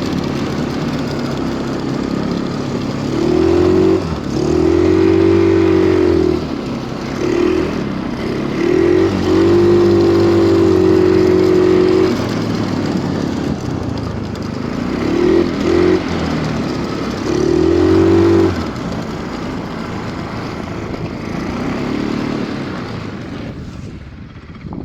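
Stels Kapitan Long snowmobile engine pulling through snow, its note rising and falling as the throttle is opened in three long bursts and eased between. It settles to a lower running sound and fades near the end.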